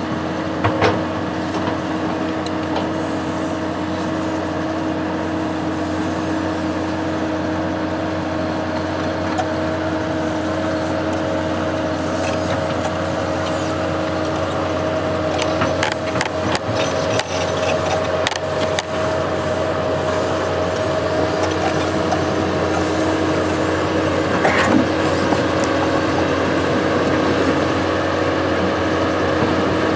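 Construction machine's engine running steadily at a constant speed, with scattered clicks and knocks in the middle of the stretch and again near the end.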